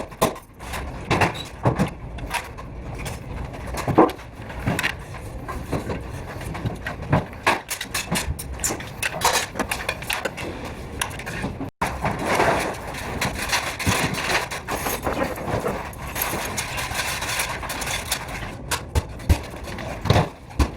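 Work noise from interior carpentry: irregular knocks, taps and clatter over a steady background, with one sharp knock about 4 seconds in.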